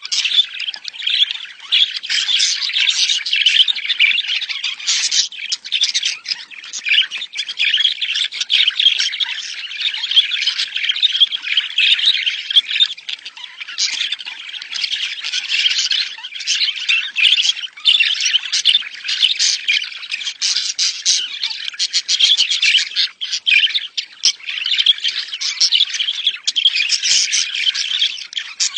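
A flock of budgerigars chattering and warbling without a break, a dense stream of quick squawks and chirps. This is the breeding-season chatter that is played to caged budgies to bring them into breeding condition.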